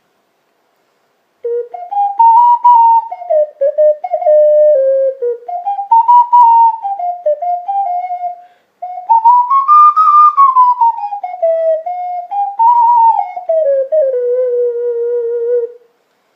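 Homemade clay ocarina, still unfired and tuned a half step low, playing a melody of clear single notes that step up and down. The tune has a short break about halfway through and ends on a long held low note.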